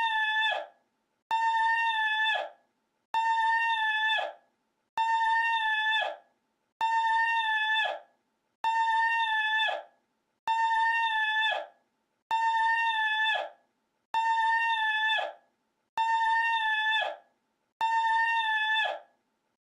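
One short recorded cry looped over and over: a high, steady held tone with a slight drop in pitch as it cuts off. Each cry lasts about a second and repeats every 1.8 seconds or so, with dead silence between, about eleven times.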